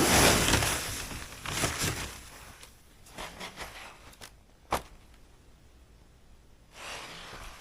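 Rustling and shuffling of gear being handled, loudest at the start and fading, with a few light knocks, one sharp click just under five seconds in and a short swish near the end.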